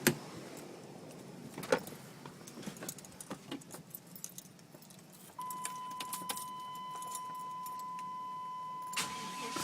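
Keys jangling with scattered clicks and knocks as a pickup's ignition key is readied; from about halfway through, a steady high warning tone sounds from the truck, with a knock near the end.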